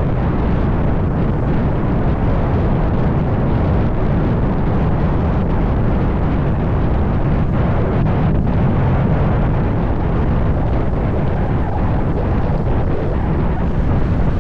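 Wind buffeting the microphone of a moving motorbike, a steady loud low rumble with road and engine noise underneath.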